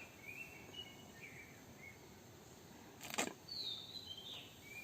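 Faint chirping of wild birds: short whistled calls in two brief groups, one early and one late. There is a single sharp click or knock about three seconds in.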